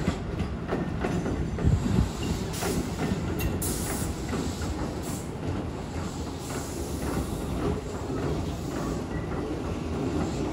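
Keihan electric commuter train rolling slowly past, with steady running noise and its wheels clicking over rail joints and points.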